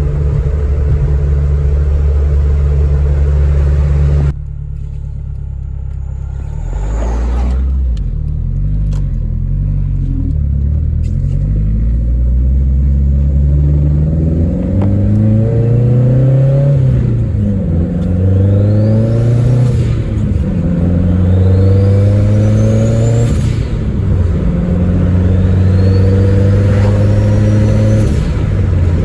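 Turbocharged 2002 Honda Civic EP3 engine under way. It runs steadily, then drops suddenly about four seconds in. From about twelve seconds it pulls repeatedly through the gears, its pitch rising in each gear and falling at each shift, with a high turbo whine rising over the later pulls.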